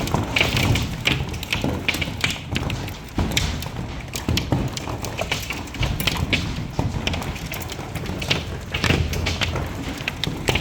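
Hailstones pelting down hard: many irregular sharp knocks and thuds over a steady rushing hiss.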